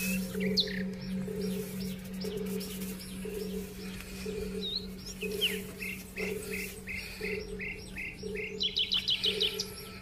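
Small birds chirping: a short chirp repeated about three times a second through the middle, then a quick trill near the end. A steady low drone runs underneath.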